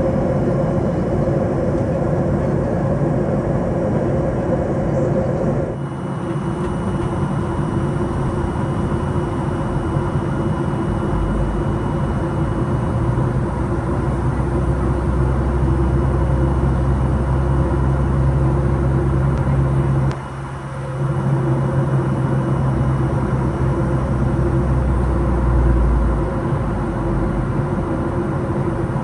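Steady cabin noise inside a Boeing 737-800 airliner in flight: engine and airflow rush with a low drone. The drone grows stronger from about a third of the way in, with a short dip partway through.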